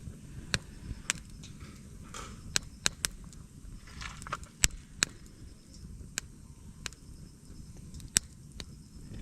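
Split-firewood fire burning in a fire pit, crackling with irregular sharp pops over a low steady rumble.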